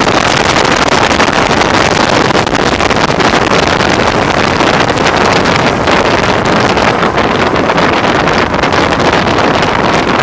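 Heavy wind noise battering the microphone of a BMW R1100R motorcycle ridden at road speed, a loud steady roar that buries the engine. The rider puts it down to the windscreen.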